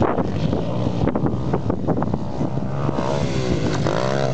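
Small single-cylinder four-stroke pit bike engine revving up and down as the bike is ridden over the track, pitch rising and falling repeatedly, with a couple of clear rev sweeps near the end.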